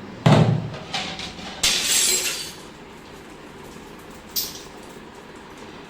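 Fridge part being cleaned breaking: a heavy knock, then about a second and a half in a crash with a bright, ringing smash that lasts about a second, and a lighter clink near the end.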